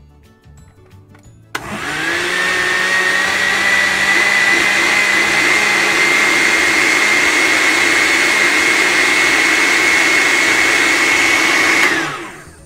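Hamilton Beach countertop blender switched on about a second and a half in. Its motor whine rises quickly to a steady pitch while it blends a thin batter of milk, egg, butter and sugar. It is switched off near the end and winds down with a falling pitch.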